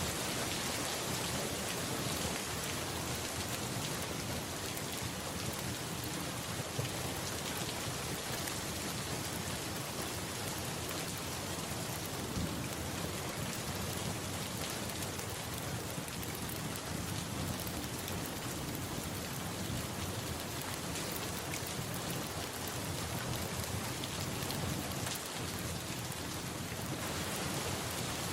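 Steady rain: an even, unbroken hiss, with a few small clicks now and then.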